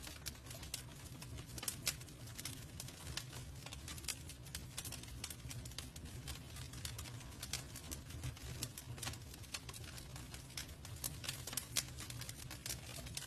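Campfire burning wood, crackling steadily with many irregular sharp pops and snaps over a steady low rumble.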